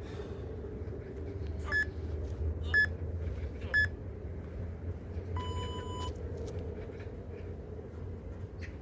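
Interval workout timer beeping a countdown: three short beeps about a second apart, then one longer, lower beep marking the start of the next interval. A steady low hum runs underneath.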